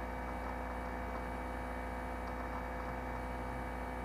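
A steady low electrical hum with a faint hiss, unchanging in level.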